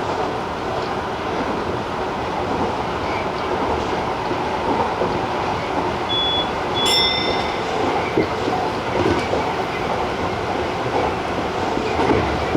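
Tobu 50090-series electric train running at speed on the Tojo Line: steady rolling rumble of wheels on rail, with a brief high squeal about seven seconds in.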